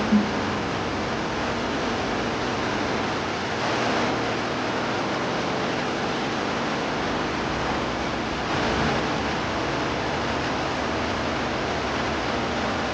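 Steady rushing noise of sea surf, swelling slightly about four seconds in and again near nine seconds, with a brief thump at the very start.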